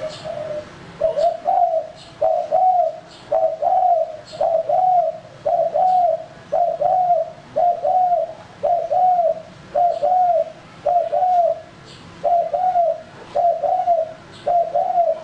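Male spotted dove (tekukur) cooing in a steady series of about a dozen short coos, roughly one a second, each rising then falling in pitch: the male call used as a lure (pikat) for wild doves.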